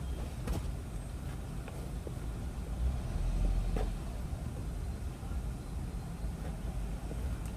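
A cardboard toy box handled while its tape is looked over for cutting: a few faint scratches and clicks over a low steady rumble.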